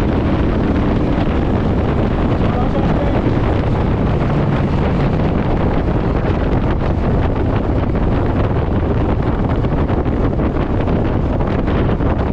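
Steady, loud wind noise buffeting the microphone of a rider on a moving Honda VTX1800 motorcycle, a dense low rumble with no let-up.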